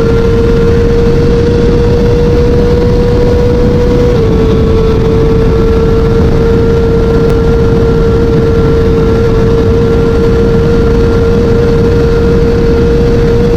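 BMW S1000RR superbike's 999cc inline-four engine held at high revs during a flat-out top-speed run, a steady high engine note over heavy wind buffeting. The pitch dips slightly about four seconds in, then holds.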